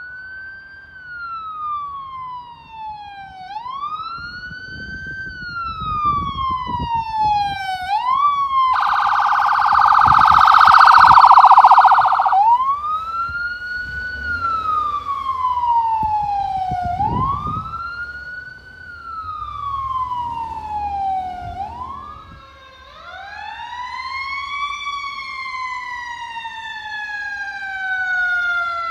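Emergency vehicle siren wailing, sweeping up quickly and sliding down slowly every three seconds or so, with a loud horn blast of about three seconds partway through. Near the end the siren changes to one long, slow falling wail over vehicle rumble.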